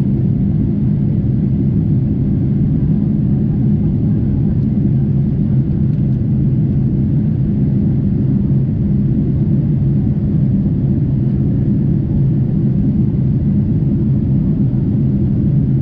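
Steady cabin noise inside a Boeing 747-8 in flight: a low, even drone of its four GEnx engines and the airflow over the fuselage, with a few steady hum tones and a fainter hiss above it.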